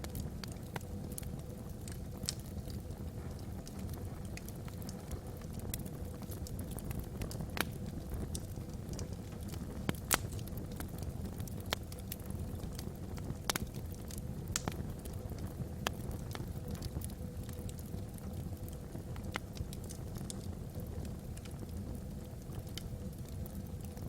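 Wood fire burning in a fireplace: a steady low rumble of the flames with frequent sharp crackles and pops from the logs, a few of them louder.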